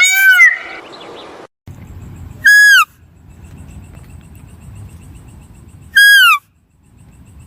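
A bird gives two loud, short calls about three and a half seconds apart, each bending down in pitch, over a faint low rumble. A run of similar honking calls ends just after the start.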